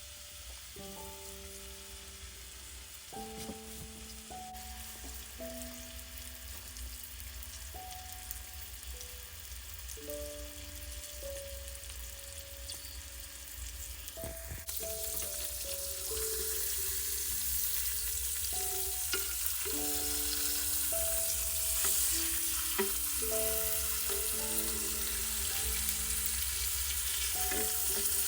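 Venison burgers frying in a pan with a steady sizzle that grows louder about halfway through. A slow instrumental melody plays over it.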